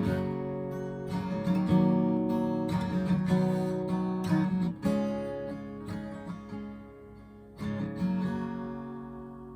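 Acoustic guitar strumming chords as the instrumental ending of a song; a last chord is strummed about eight seconds in and rings out, fading away.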